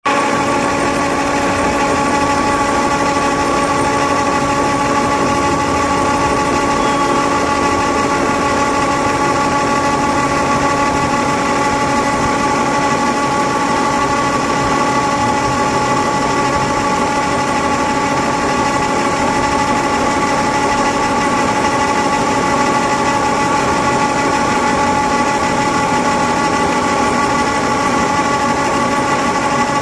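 Heavy-duty milling machine running steadily: an even motor hum with a constant whine held at several pitches, unchanging throughout.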